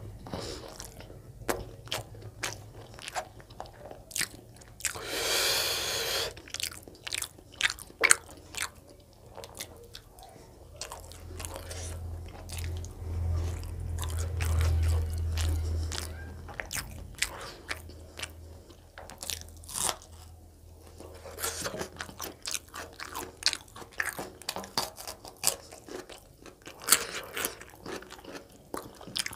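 Close-miked chewing and biting of chicken gizzard curry and roti, with wet mouth clicks and smacks all through, and a brief louder hiss about five seconds in.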